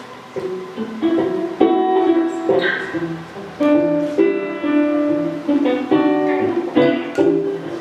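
Acoustic guitar playing plucked chords, each starting sharply and ringing on.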